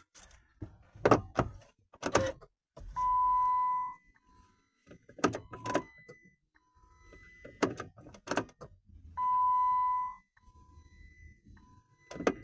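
Chrysler Grand Voyager's warning chime beeping twice, each beep about a second long, among a series of sharp clicks and knocks. The engine does not crank: the battery is too flat to start it.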